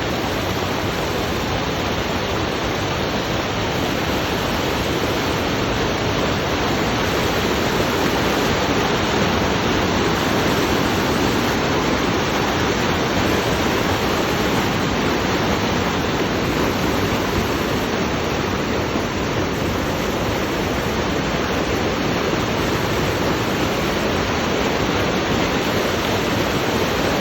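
Steady, loud rush of fast-flowing water, unbroken and even throughout.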